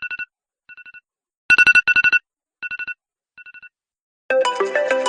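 iPhone alarm tones. First comes a tone of rapid pulsed beeps in short groups, each loud group followed by fainter echoing repeats. About four seconds in, it gives way to a different alarm tone, a busier melodic pattern of many quick notes.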